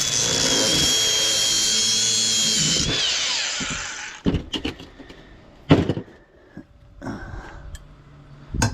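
Handheld power tool running at a steady high whine, then released about three seconds in and winding down. A few sharp knocks of handled scrap follow.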